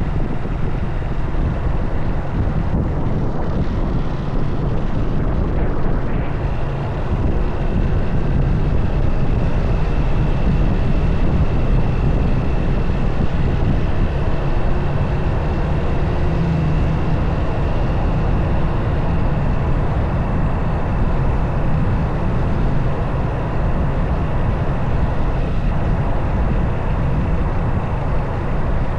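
Motorcycle on the move: steady low wind rumble on the camera's microphone mixed with engine and road noise, with a faint thin steady whine from about six seconds in.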